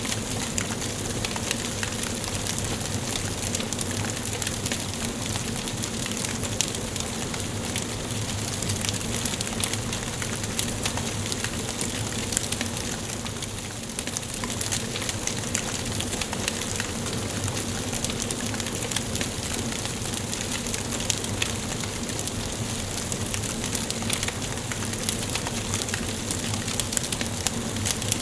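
Wood fire burning in a fireplace: a steady hiss with frequent small sharp crackles and pops from the burning logs.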